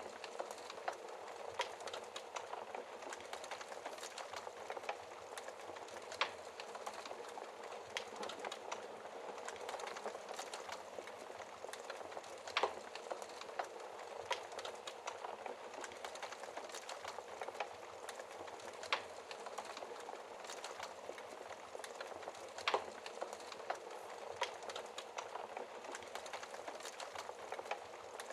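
Wood fire burning in a fireplace: a steady soft hiss of flames with frequent irregular crackles and pops of the logs, a few sharper pops standing out.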